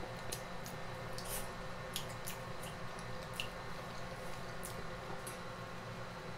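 Close-miked eating: soft wet chewing and mouth clicks with scattered small squishes, over a steady low hum.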